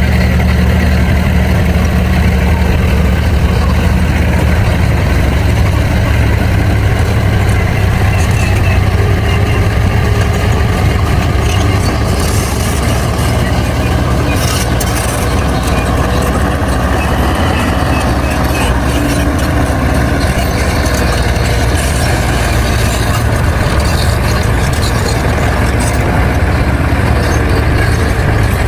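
Crawler bulldozer's diesel engine running steadily under load, with bouts of metallic clatter in the middle and again later on.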